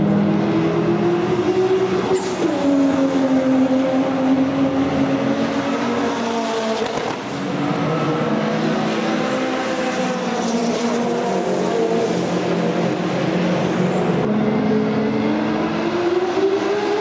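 Race car engine running hard on a circuit. Its pitch climbs and drops sharply at a gear change about two seconds in, wavers through the middle, then climbs again to another sharp drop near the end.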